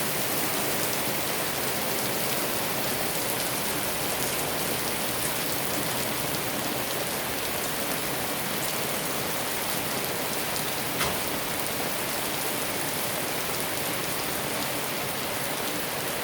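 Steady rain falling and pattering on surfaces, with a single sharp click about two-thirds of the way through.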